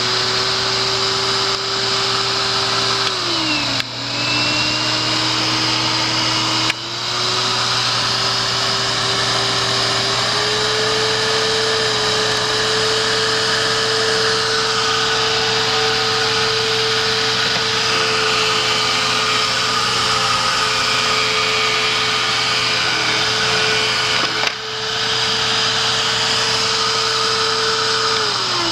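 Hoover commercial upright vacuum cleaner's motor running with a steady whine. It winds down and starts again after a click a few times, its pitch stepping higher, and it winds down near the end.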